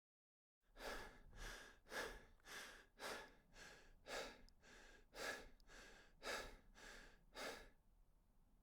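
Faint, rhythmic breathing of a person, about two quick breaths a second for several seconds, fading near the end.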